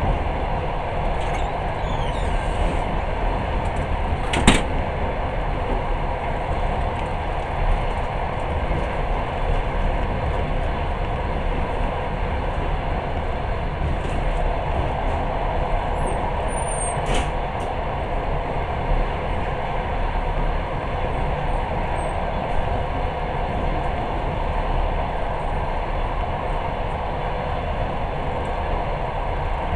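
Passenger train running steadily, heard from inside the carriage: a constant rumble of wheels on track, with a sharp knock about four seconds in and a fainter one around seventeen seconds.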